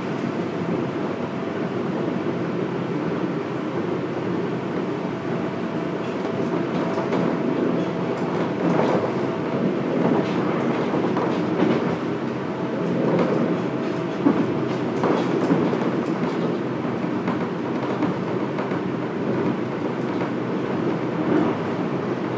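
Fukuoka City Subway 1000N-series electric train heard from inside the car while running: a steady rumble of wheels on rail, with a faint steady tone that comes and goes and a run of sharp clicks through the middle.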